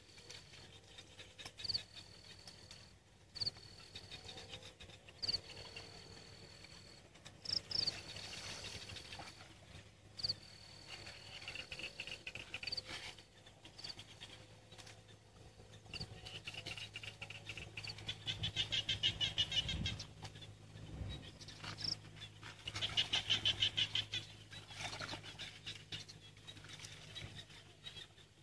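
Animal calls: a short high chirp repeats about every two seconds, and twice a rapid pulsing trill joins it for a couple of seconds.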